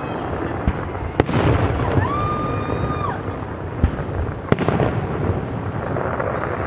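Fireworks going off: a continuous rumble of booms, with two sharp bangs about a second in and about four and a half seconds in. A high, steady whistling tone lasts about a second, near two seconds in.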